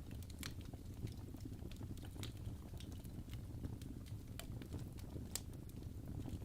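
Wood fire crackling in a fireplace: a steady low rumble of burning with sharp pops and snaps at irregular moments, a few each second.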